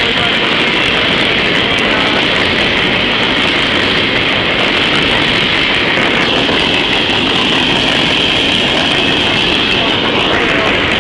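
Coal hopper cars of a freight train rolling past at close range: the steady, loud noise of steel wheels running over the rails. A faint high whine joins in for a few seconds past the middle.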